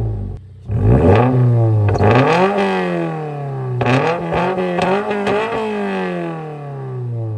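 Toyota GR86's flat-four engine revved through an MBRP cat-back exhaust with mufflers: about three blips, each pitch climbing quickly and then falling back toward idle.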